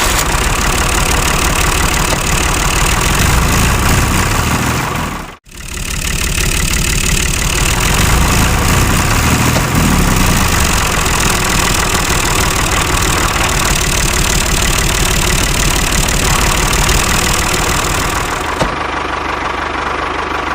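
A small engine running steadily and loudly with a fast, even knock. It cuts out abruptly for a moment about five seconds in, then runs on.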